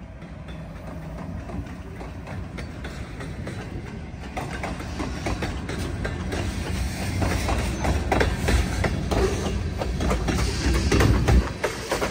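Train approaching: a diesel locomotive's low engine hum growing steadily louder, with wheels clicking over rail joints from about four seconds in, the clicks coming faster and louder toward the end.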